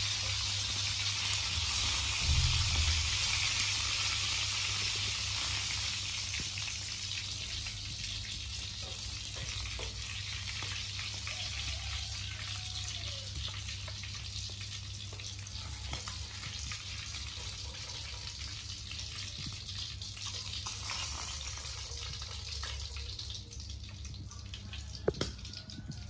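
Frog pieces sizzling in hot oil in a wok, turned with metal tongs that click and scrape against the pan. The sizzle is loudest at first and slowly dies down.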